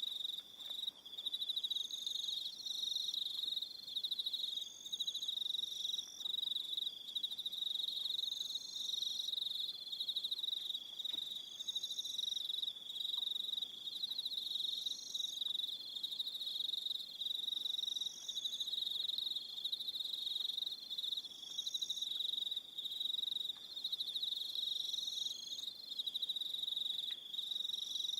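Evening chorus of crickets: a continuous high, pulsing trill, with shorter higher chirps from other insects repeating every second or two above it.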